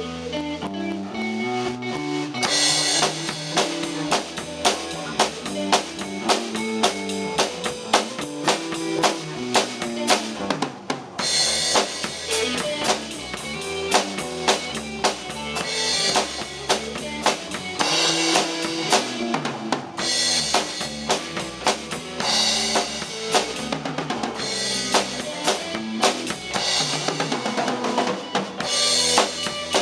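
Live rock band playing an instrumental section, with a drum kit keeping a steady driving beat of bass drum, snare and rimshots over a bass line and guitar.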